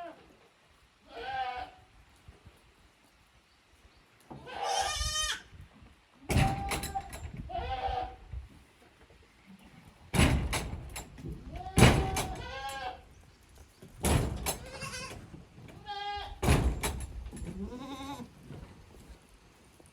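Goats bleating, about six short high-pitched calls spread out, with several loud thuds and knocks in between.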